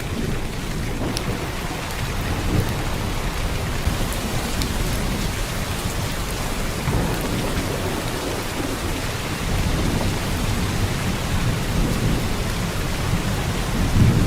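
Heavy downpour of rain: a steady dense hiss of drops with a deep low rumble underneath that swells and eases every few seconds, and a few sharper single drops ticking through.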